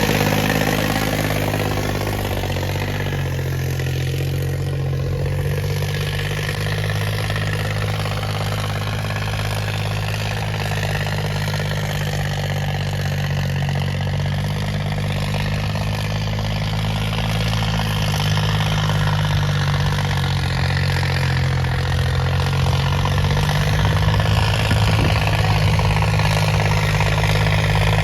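Swaraj 855 tractor's diesel engine running at a steady idle. The pitch drops slightly a few seconds in and rises a little near the end.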